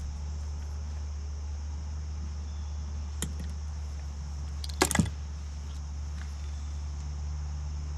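Small sharp clicks of hand tools working wire, one faint click and then a louder quick cluster about five seconds in, over a steady low hum.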